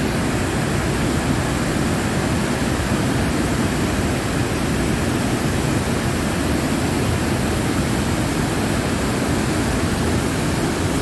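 Iguazu Falls waterfall rushing steadily: a loud, even, unbroken noise of falling water.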